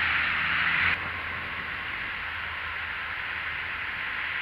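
Heavy rain falling, a steady hiss that drops suddenly in level about a second in and then carries on evenly.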